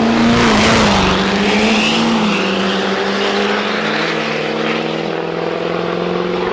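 Turbo-diesel drag trucks racing down the strip, loudest in the first second or so, over a steady engine drone that shifts in pitch.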